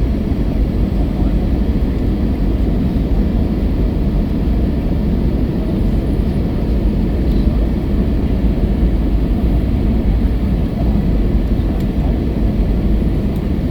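Steady low rumble of an Airbus A321 in flight, engines and airflow heard from inside the passenger cabin, with no distinct events.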